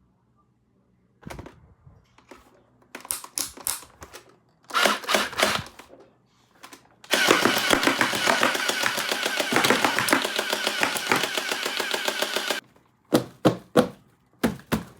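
Electric toy gun firing a rapid rattling burst for about five seconds. Before it come scattered plastic clicks and rustling of handling, and after it a few sharp separate clicks.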